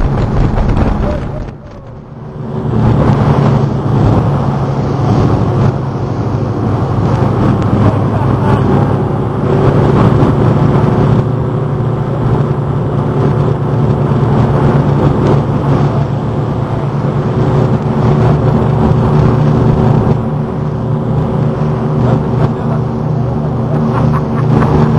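Patrol launch's engines running steadily under way, a low, even drone. The sound dips briefly about two seconds in, then comes back up to full level.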